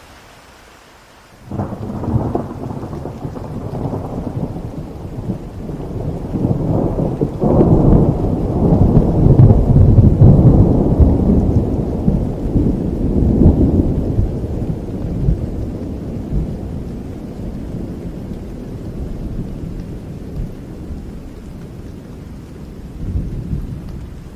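A thunderclap breaking about a second and a half in over steady rain, then a long low rolling rumble that swells to its loudest in the middle and slowly dies away, with a smaller swell near the end.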